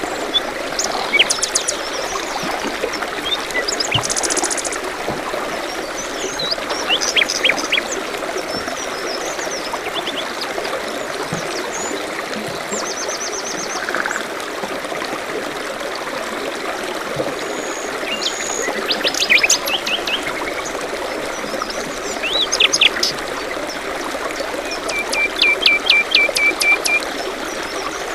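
Small stream trickling steadily, with songbirds singing short phrases and trills over it every few seconds; the loudest is a run of quick repeated notes near the end.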